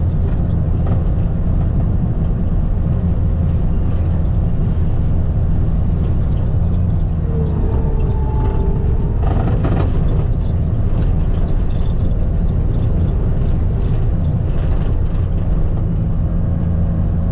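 Skid steer engine running steadily under work while its bucket pulls in rock. About halfway through, a brief whine rises and falls, followed by a single short clank.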